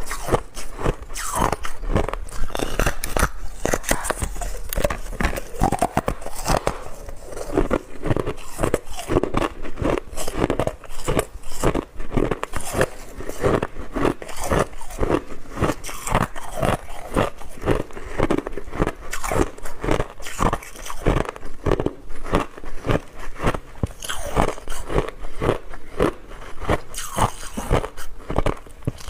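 Hard ice being bitten and chewed close to the microphone: rapid, continuous crunching and cracking.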